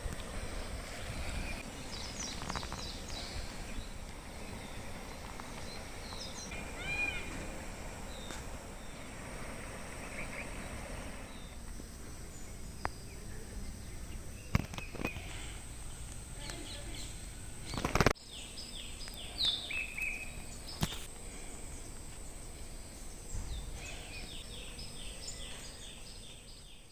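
Birds chirping and calling repeatedly over a steady outdoor background hiss with a thin high tone. A few sharp knocks break in, the loudest about 18 seconds in.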